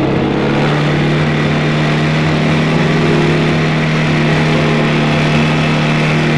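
ATV engine running steadily under way, its pitch stepping up slightly about half a second in.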